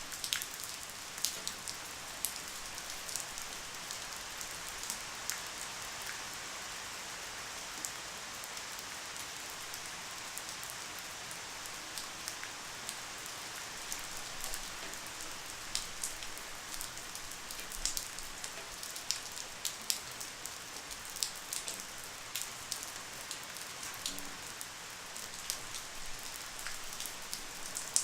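Light, steady rain: an even hiss of falling rain with scattered sharp drip ticks.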